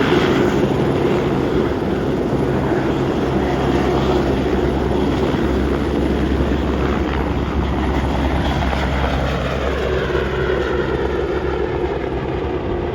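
Helicopter's turbine engine and rotor running, a steady loud drone that eases off slightly toward the end.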